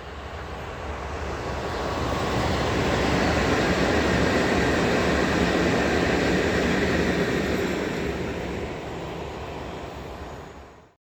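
A train passing on an electrified main line, its rumble and rail noise building to a peak over the first few seconds, holding, then easing off before cutting off abruptly near the end.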